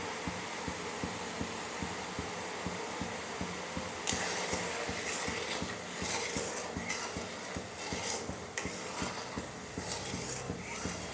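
Steady kitchen hiss with fine rapid ticking. From about four seconds in, metal utensils and pots clink and scrape several times.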